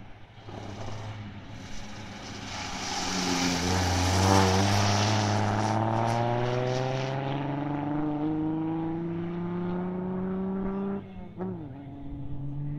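Vintage open roadster's engine accelerating hard away down the runway, its note rising steadily through one long gear. About eleven seconds in it cuts out briefly and dips in pitch for a gear change, then pulls again.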